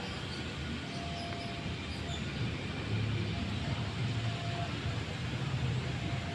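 Steady low rumble of a train on the line, with a low engine drone underneath.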